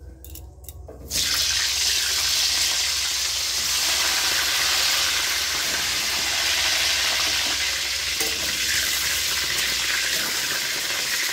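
Cauliflower florets going into hot oil in a kadai: a loud, steady sizzle starts suddenly about a second in and keeps on as they fry, with the oil spattering a lot, and a spatula stirring them near the end.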